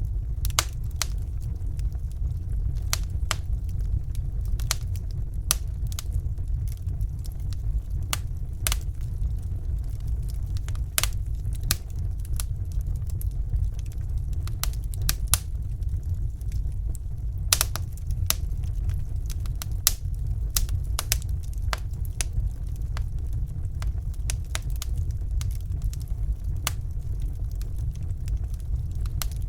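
Wood fire burning in a fireplace: sharp, irregular crackles and pops over a steady low rumble.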